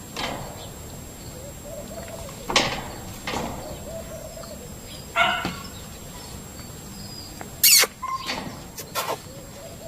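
Short animal calls, several separate ones a second or two apart, with a sharp click about three-quarters of the way through.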